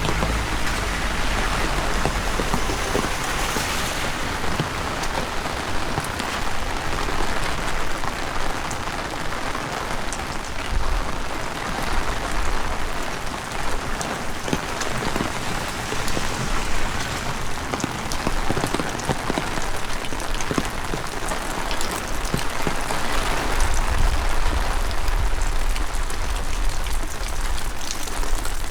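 Heavy rain falling steadily, a dense hiss dotted with the ticks of single drops. Gusts of wind add a low rumble on the microphone at the start and again near the end.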